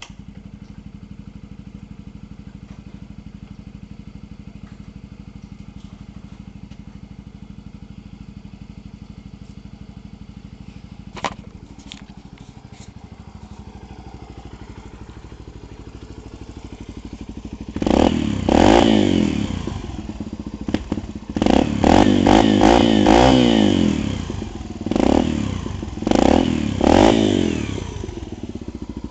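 Yamaha TT-R125's single-cylinder four-stroke engine, breathing through a Pro Circuit 304 stainless aftermarket exhaust, idling steadily, with one sharp knock about eleven seconds in. From about eighteen seconds in it is revved in a string of quick blips, each rising and falling, then settles back to idle near the end.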